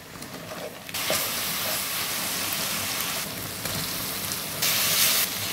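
Sliced onions frying in hot oil in a pan: a steady sizzle that gets much louder about a second in and louder still near the end.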